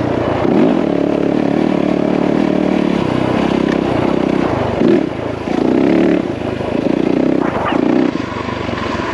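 Yamaha WR450F's single-cylinder four-stroke engine running as the dirt bike is ridden, its revs rising and falling several times in the second half as the throttle is worked.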